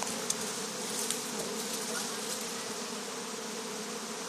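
A swarm of honey bees in flight all around, a steady dense buzzing hum.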